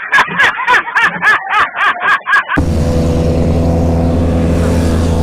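A rapidly repeating rising-and-falling high-pitched sound with sharp clicks for about two and a half seconds, cut off abruptly by a motorcycle engine running steadily at constant revs.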